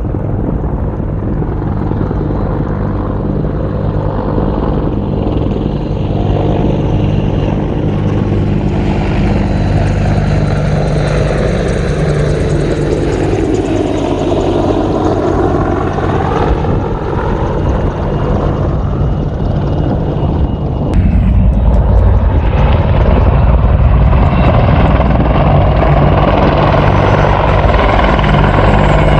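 A helicopter flying over, its steady low drone sweeping up and down in pitch as it passes. About 21 seconds in, the low rumble suddenly gets louder.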